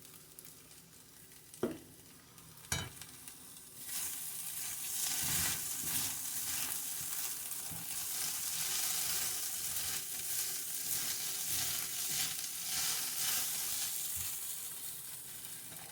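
Food sizzling in a frying pan while it is stirred with a spatula. Two sharp clicks come first, then the sizzle sets in about four seconds in and holds steady, easing off a little near the end.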